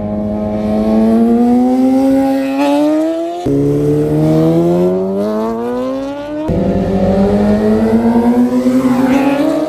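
A vehicle engine accelerating hard through the gears: its pitch climbs steadily, drops sharply at an upshift about three and a half seconds in and again about six and a half seconds in, then climbs once more, loudest near the end.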